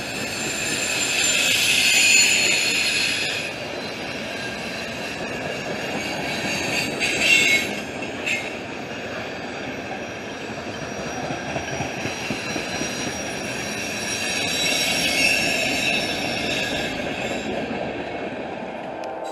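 Freight cars of a mixed manifest train rolling past at speed, with steady wheel and rail rumble. High-pitched wheel squeal rises in the first few seconds and again about 15 s in, and a few sharp squeals or bangs come around 7 to 8 seconds in.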